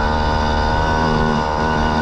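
Yamaha PW50's small two-stroke single-cylinder engine running steadily at a constant speed. It has just been restarted after being drenched with water and is not running correctly: the rider says it needs the choke.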